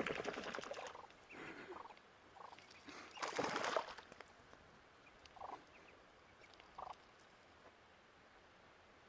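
Muscovy ducklings calling: a few louder, rougher bursts in the first four seconds, then single short peeps spaced a second or more apart.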